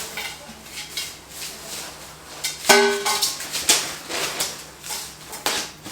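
Irregular clinks and knocks of furniture parts and hardware being handled during flat-pack table assembly, with a short pitched squeak or voice sound about three seconds in.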